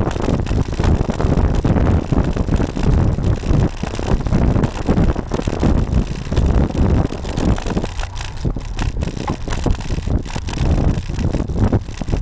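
Wind buffeting the microphone of a camera mounted on a moving road bike, a loud, gusty low rumble with frequent bumps, mixed with the noise of riding.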